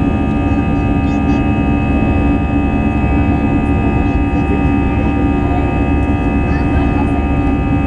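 Airbus A321 jet engines heard inside the passenger cabin: a loud, steady rumble with several constant tones over it.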